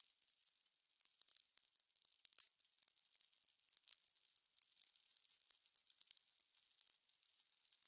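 Fire crackling: a steady thin hiss with frequent irregular pops and snaps.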